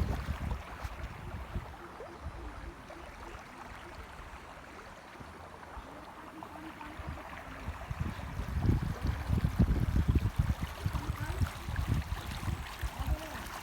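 Steady rush of running water, with wind buffeting the microphone in low gusts at the start and again for several seconds past the middle.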